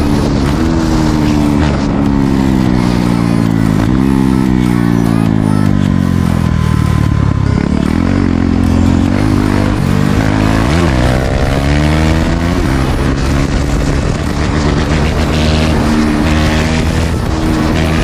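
Single-cylinder sport motorcycle engine at riding speed, its revs rising and falling through gear changes. The pitch drops in a long slide about four to seven seconds in, then climbs again.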